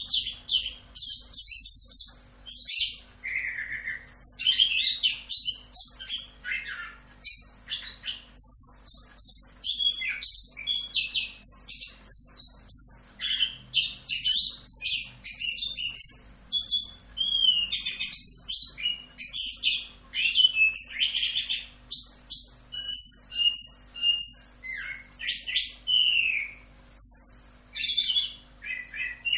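Chestnut-capped thrush (anis kembang) singing a long continuous run of rapid, varied notes and short gliding phrases with hardly a pause, the full 'ngerol' song used as a tutor recording for cage birds.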